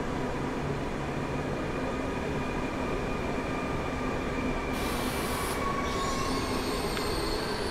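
PKP Intercity ED250 Pendolino electric multiple unit rolling past along the platform: a steady rumble of wheels on rail with faint high whining tones, and a brief hiss about five seconds in.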